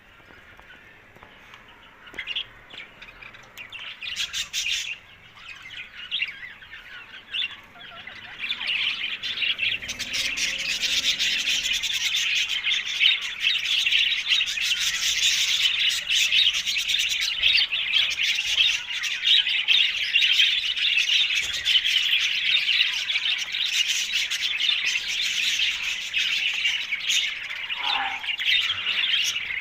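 Ringneck parakeet chirps and squawks: scattered calls at first, then from about a quarter of the way in a dense, continuous, high-pitched chatter.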